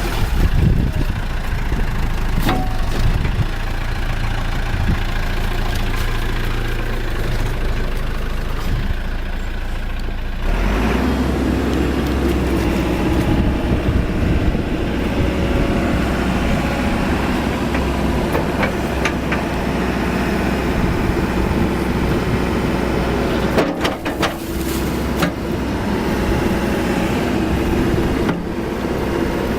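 Caterpillar 416C backhoe loader's turbocharged diesel engine running, its note picking up and growing heavier about ten seconds in as the machine is worked. A few sharp knocks along the way.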